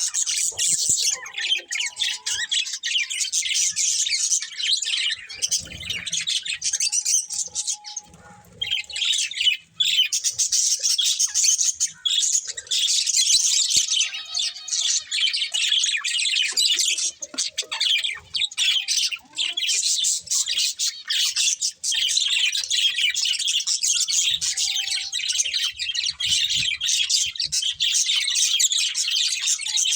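Budgerigars chattering and chirping continuously, a dense mix of warbles, tweets and squawks, with a brief lull about eight seconds in.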